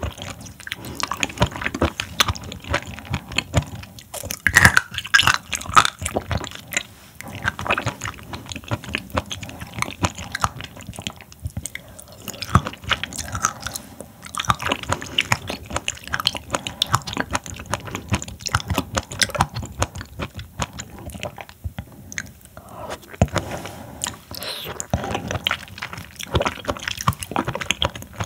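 Close-up mouth sounds of chewing and biting raw seafood, with many small wet clicks and crackles throughout.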